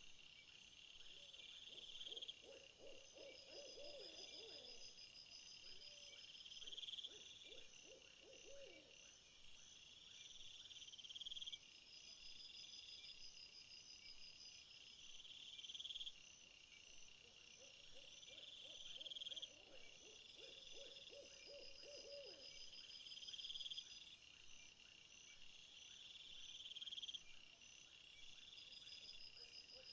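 Faint night-time nature ambience: insects calling in a high, steady rhythm of bursts about every three and a half seconds, with a low wavering hooting call that comes in twice.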